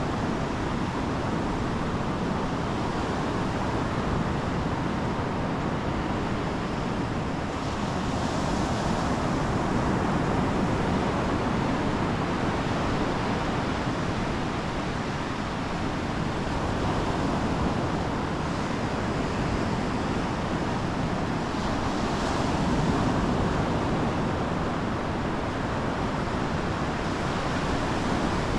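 Ocean surf breaking and washing ashore, rising and falling in slow swells, with some wind on the microphone.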